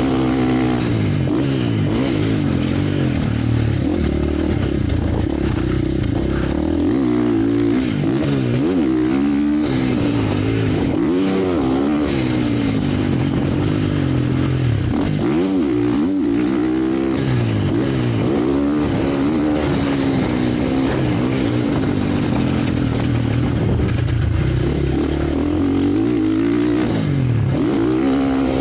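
Motocross bikes riding the track, engines revving hard and dropping back again and again as they shift and go over the jumps and corners, the pitch rising and falling repeatedly and more than one engine overlapping at times.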